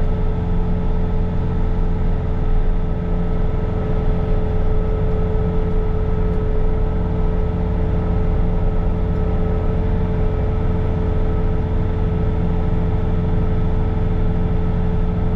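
Bobcat T66 compact track loader's diesel engine running steadily at high revs, driving its snow blower attachment: a constant drone with a steady whine over it.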